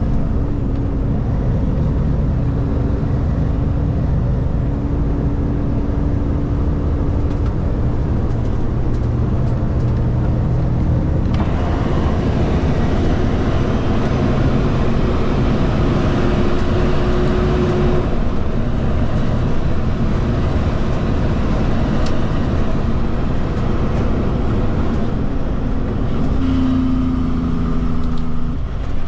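Kenworth K200 road train's Cummins diesel engine running steadily under cruise load with tyre and road noise, heard from inside the cab. A louder hiss of wind and road noise swells from about a third of the way in for several seconds, then falls back.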